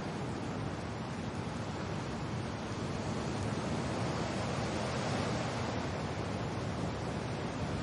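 Steady wind and rain noise, an even rushing hiss that swells slightly in the middle.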